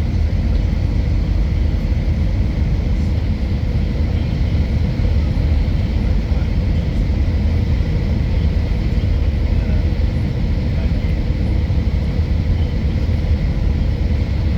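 Steady low rumble of an Airbus A319 airliner cabin in flight on approach: engine and airflow drone, with a faint steady whine above it.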